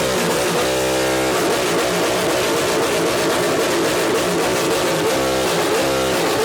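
Car engine with a very loud exhaust being revved repeatedly, the pitch climbing, holding briefly and dropping back with each blip.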